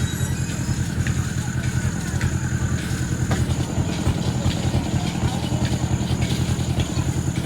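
Train running with a steady, fast-pulsing low rumble and a faint high whine over it.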